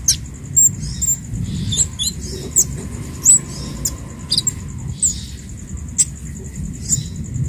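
Kemade (cabe Jawa flowerpecker) calling: short, thin, high chips and quick slurred notes, repeated irregularly about once or twice a second over a steady faint high buzz.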